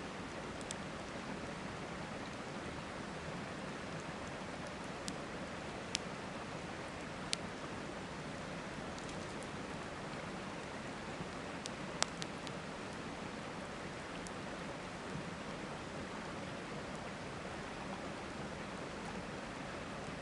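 Wood campfire crackling, a few sharp pops standing out about six, seven and twelve seconds in, over the steady flowing noise of a river.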